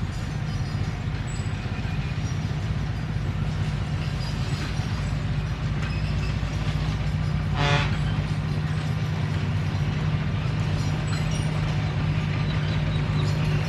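Komatsu D21P bulldozer's diesel engine running steadily under work. A brief squeal comes just past halfway through.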